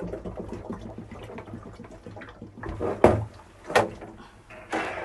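Water poured from a plastic bottle into an ultrasonic humidifier's water tank, running unevenly with a few sharper, louder sounds about three and four seconds in.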